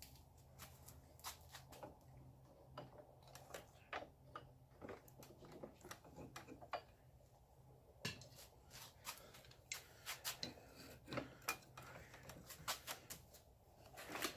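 Faint, scattered clicks and light metal knocks from a hot railroad spike being twisted with a blacksmith's twisting wrench, over a faint low hum.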